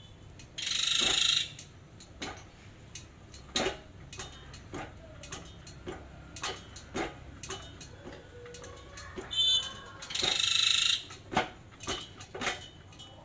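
Metal tools and parts clinking and knocking during hands-on repair of a hand pallet truck's hydraulic pump. Two sharp hisses about a second long, each just after a brief squeak: one just after the start and one about ten seconds in.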